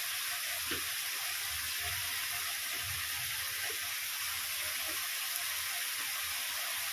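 Chopped vegetables and ground spices frying in oil in a metal kadhai: a steady, even sizzle.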